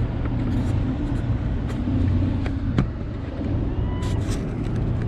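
Steady low rumble of motor traffic mixed with wind noise on the microphone, with a few faint clicks.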